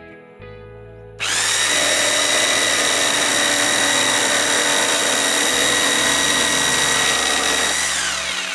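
Stanley SJ60 600-watt electric jigsaw switched on about a second in, running with a steady high whine for about six seconds. It is then released and winds down with falling pitch near the end. Faint background music lies underneath.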